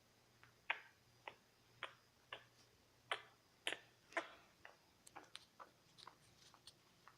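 A series of faint sharp clicks or taps, about two a second at first, then lighter and quicker ones after about five seconds.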